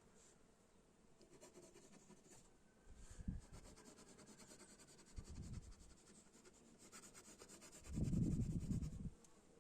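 Faint rubbing and scraping with fine rapid ticking, broken by three dull low bumps, the longest near the end.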